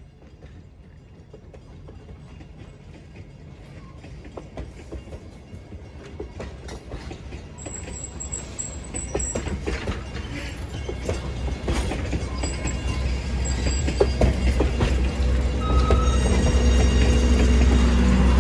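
Train approaching and growing steadily louder: a low rumble builds with a thickening run of rattling clicks from the wheels, a brief thin high squeal about eight seconds in, and a steady engine hum by the end.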